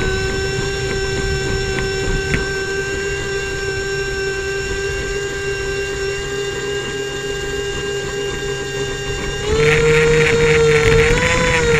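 Airboat engine and propeller running with a steady droning whine, then revving up to a higher, louder pitch about nine and a half seconds in.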